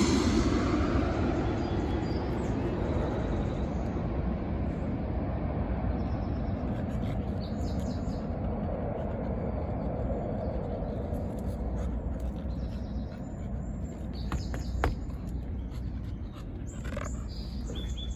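A steady low rumble that fades over the first few seconds, with birds chirping now and then from about six seconds in. A sharp click comes about fifteen seconds in.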